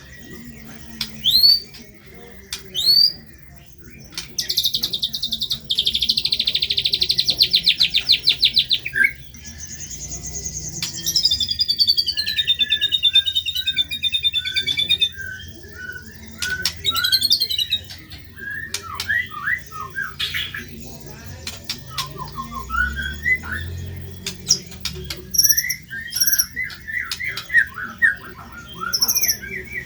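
Songbird singing a varied masteran song of chirps and whistles. About four seconds in there is a fast trill lasting some five seconds, then a falling run of notes, then quick repeated short notes.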